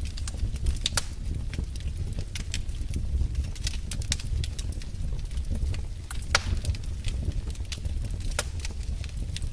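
Wood fire crackling in a fireplace: irregular sharp pops and snaps over a low steady rumble, with one louder pop about six seconds in.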